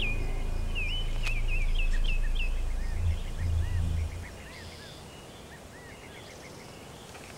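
Small birds chirping and calling over and over in quiet outdoor ambience. A low drone underneath stops about four seconds in, leaving only the birds and faint background.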